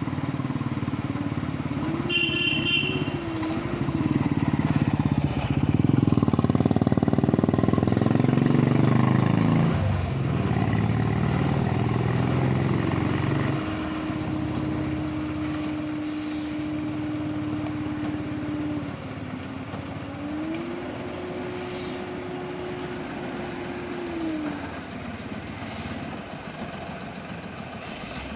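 Lorry engine running with its pitch rising and falling, loudest a few seconds in and dropping off suddenly about ten seconds in. A short horn toot sounds about two seconds in.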